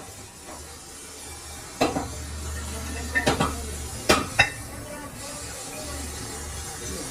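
Sharp metal clinks and knocks of steel parts being handled, about five in all between two and four and a half seconds in, two of them close together, over a steady low hum.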